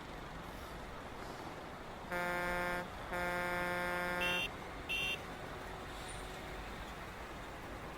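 Road traffic running steadily while a vehicle horn honks twice, a short blast then a longer one about a second and a half long. Two short high-pitched beeps from another horn follow.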